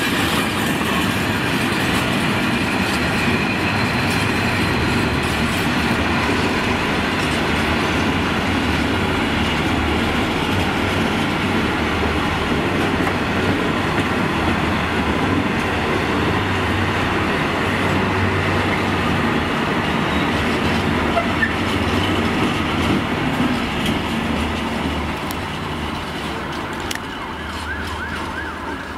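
Freight train of covered steel-coil wagons rolling past, a steady rumble and clatter of wagon wheels on the rails. It fades over the last few seconds as the end of the train pulls away.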